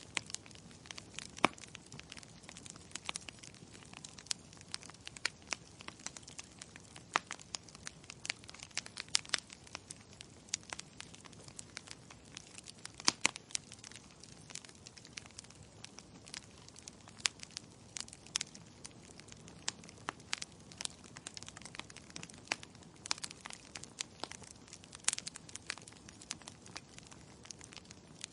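Wood logs burning in a fireplace, crackling with irregular sharp pops over a soft steady hiss.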